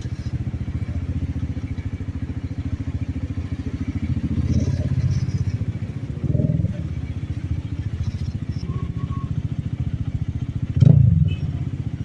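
Benelli TNT 25's single-cylinder engine running with a steady low exhaust pulse, swelling briefly about four and six seconds in. Near the end a sharp exhaust crack, a backfire, comes with a short louder burst.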